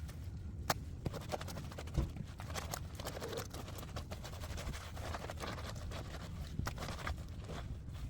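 Clothes being scrubbed by hand on a concrete washboard: irregular scraping with many small taps and clicks.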